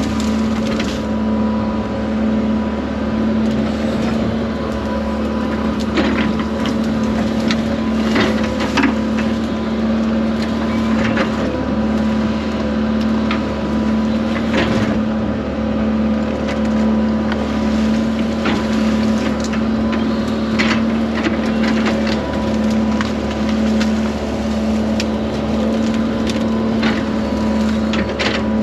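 Case 140 excavator's diesel engine running steadily under load, with scattered sharp cracks and knocks of wood as trees are pulled out.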